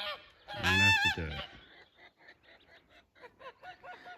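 Domestic geese honking: one loud, clear honk about half a second in, followed by a run of softer, quick calls, several a second.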